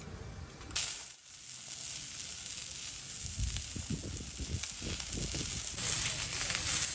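Food sizzling in hot oil or on a hot pan: a steady hiss that starts suddenly about a second in and grows louder near the end.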